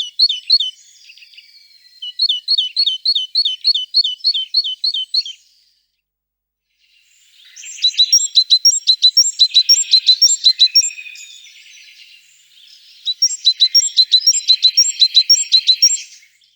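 A tit singing: fast, high, repeated chirping notes in several runs of a few seconds each, with a short silence about six seconds in.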